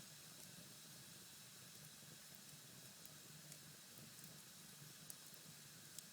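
Cherry-wood fire in a fireplace burned down to embers, very faint: a soft steady hiss with a few small scattered crackles.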